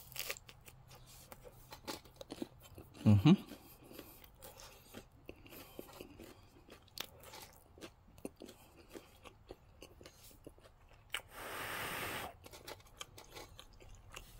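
Close chewing and crunching of a baked soft pretzel with a crispy crust: a run of small crackly clicks. A brief hum of voice comes about three seconds in, and a short hiss about twelve seconds in.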